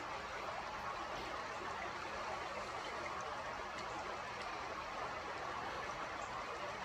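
Steady faint rushing background noise with no distinct events.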